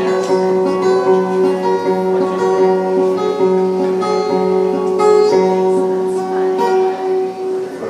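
Instrumental close of a song: guitar chords with long held notes, no singing, dying away near the end.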